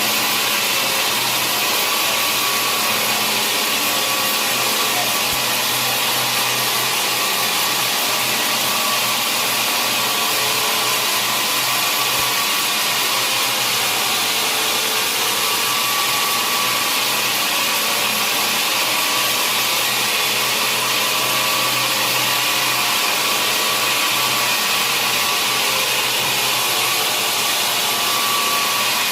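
Sawmill machinery running steadily while sawing a large log: a constant, even noise with a low steady hum.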